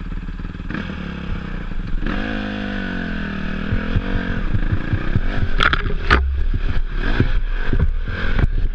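Enduro dirt bike engine running, its revs dropping and climbing again about two to four seconds in, followed by a run of sharp knocks and clatter from the bike over rough ground.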